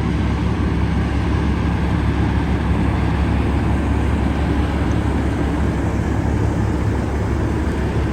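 Semi-truck diesel engine running steadily at low revs, a deep even rumble.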